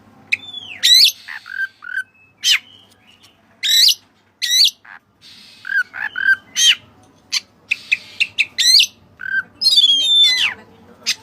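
White-bellied oriental magpie-robin (kacer dada putih) singing a loud, varied song of separate sharp whistled notes that sweep steeply up and down in pitch, with a quick run of rapid notes near the end.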